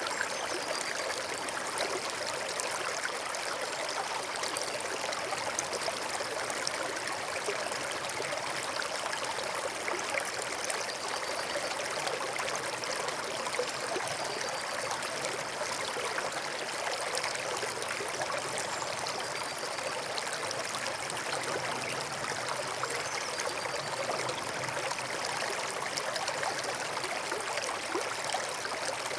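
Forest stream flowing and trickling over stones in a steady, continuous burble.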